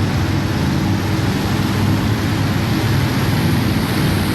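Modified pulling tractor engines running steadily, a dense, loud, low engine noise.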